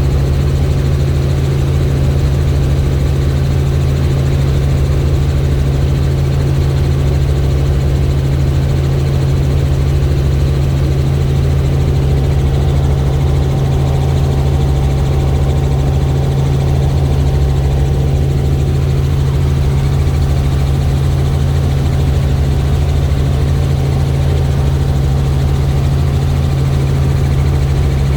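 Helicopter in flight: a loud, steady drone of rotor and engine with a deep hum, unchanging throughout.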